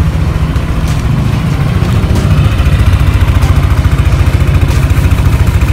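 Yamaha NMAX 155 scooter's single-cylinder four-stroke engine idling steadily.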